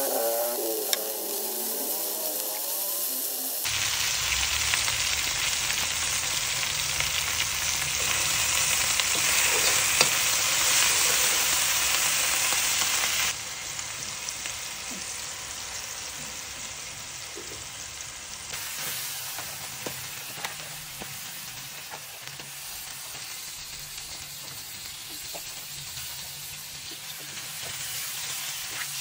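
Vegetables sizzling in hot oil in a wok as they are stir-fried, with small taps of a spatula against the pan. The sizzle gets louder a few seconds in and drops back suddenly near the middle.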